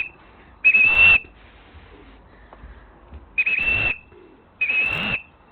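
Three short blasts on a hand whistle, each a steady high shrill note of about half a second: a pigeon fancier's whistle calling returning racing pigeons down into the loft.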